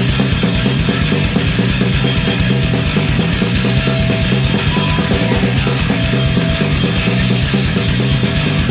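Punk band playing live: an instrumental passage with distorted guitars, bass and fast, steady drumming, without vocals.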